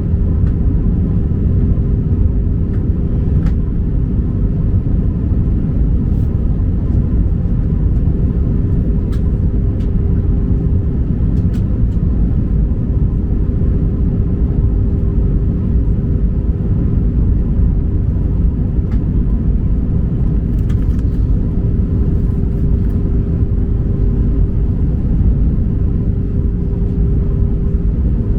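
Airliner cabin noise inside an Airbus A319 in flight: a steady, loud low rumble of engines and airflow with a constant hum, and a few faint ticks and rattles.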